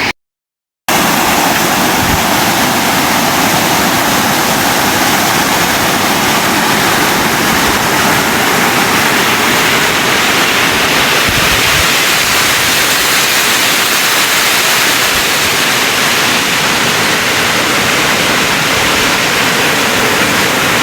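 Steady rushing of flowing water, an even loud hiss with no pitch, cut by a brief dropout to silence just after the start.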